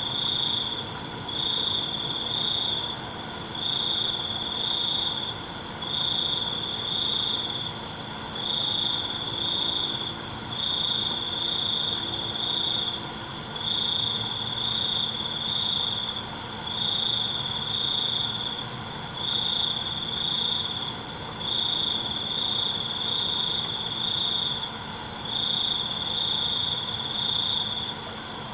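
Night chorus of crickets. One sings trills of about a second or so, repeated every couple of seconds, over a fainter, faster pulsed chirping and a steady high-pitched ringing from other insects.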